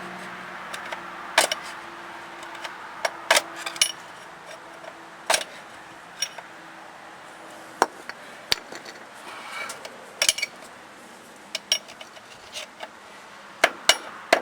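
Sharp metal clinks and knocks of hand tools on the front hub of a 1984 Chevy 4x4 truck, a screwdriver being set against the loose hub nut. Near the end comes a quick run of hammer taps, about three a second, on the screwdriver to tighten the loose nut.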